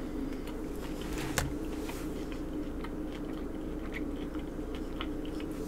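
A person chewing a mouthful of sauced fries with her mouth closed: faint, scattered wet mouth clicks, one sharper click about a second and a half in, over a steady low hum.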